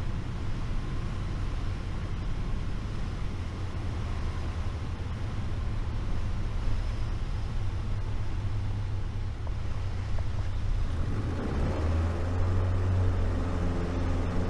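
Light aircraft's piston engine and propeller droning steadily at approach power; about eleven seconds in the engine note rises and strengthens as the throttle is opened for a go-around in gusty wind.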